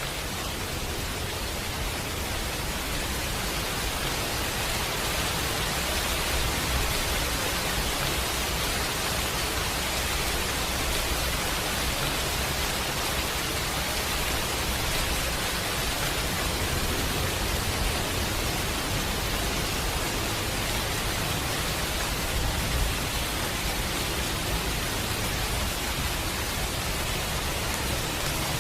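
Steady rain, an even dense hiss with a low rumble underneath, holding constant throughout.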